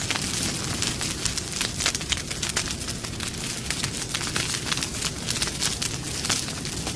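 Wood campfire crackling, with frequent irregular sharp pops and snaps over a steady soft hiss.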